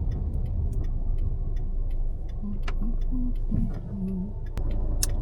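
Inside a moving car: low engine and road rumble with a steady ticking, about three ticks a second, typical of the turn-signal indicator.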